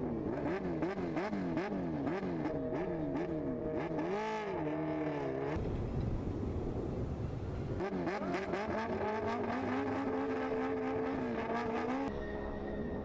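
High-revving racing engine accelerating hard through a quick series of upshifts, its pitch climbing and snapping down about twice a second. A few seconds of rushing noise break in about halfway, then another run of rising revs and shifts follows.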